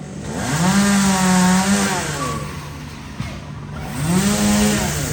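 Chainsaw engine revved up twice, each time holding at high speed for about a second before dropping back to idle.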